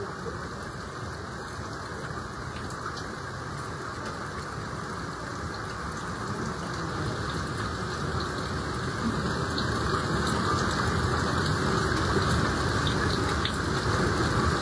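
Steady rushing of water, growing louder from about seven seconds in.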